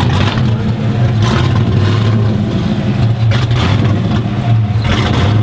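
Car engines running loudly as a steady low drone.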